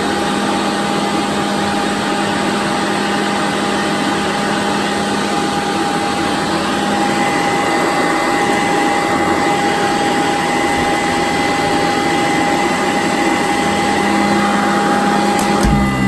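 Sanitaire upright vacuum cleaner running steadily over carpet, a constant motor whine over the rush of air and brush roll. Near the end there is a knock and the tone shifts.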